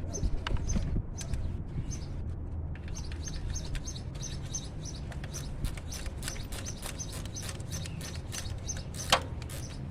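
Small birds chirping repeatedly over a low steady hum, with faint clicks of a hand wrench working a bolt.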